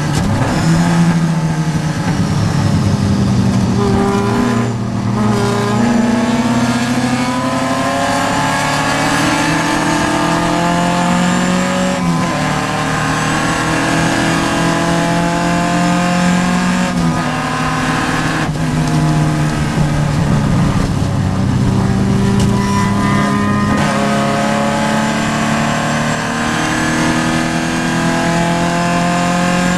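Vintage Triumph race car's engine heard from inside the car, rising in pitch as it accelerates and dropping sharply at each gear change, several times over.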